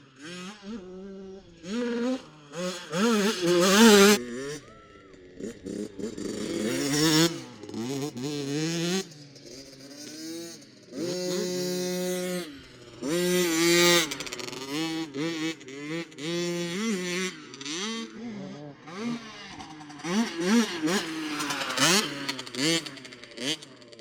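Children's small 50cc motocross bikes riding round the track, engines revving up and easing off over and over, with the pitch rising and falling. Now and then one holds a steady pitch for about a second.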